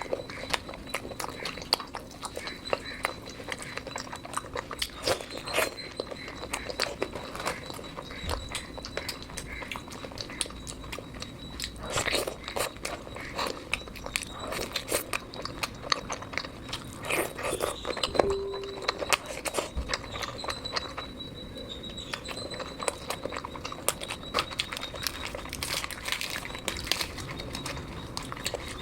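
A person eating chicken curry with puri: chewing and biting, with many short mouth clicks throughout.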